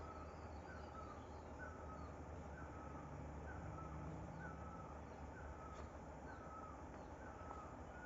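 A bird calling over and over from the forest, a short note repeated a little more than once a second, over a steady low rumble.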